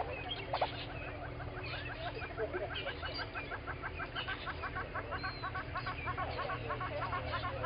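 Morning bird chorus at an African bush waterhole, led by one bird giving a long, even series of quick, short rising notes, about six or seven a second, that starts about a second and a half in. Other birds call in the background.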